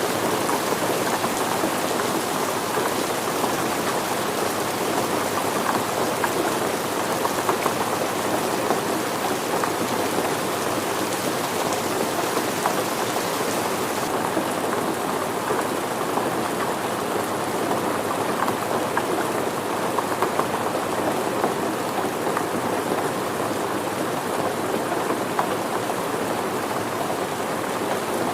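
Steady rain falling, a dense even hiss filled with many small distinct drop hits on a surface. The highest part of the hiss gets slightly softer about halfway through.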